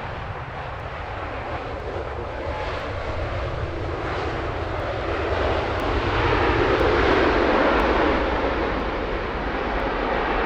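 Jet airliner engines passing, a steady roar that swells to its loudest about seven seconds in and then eases slightly.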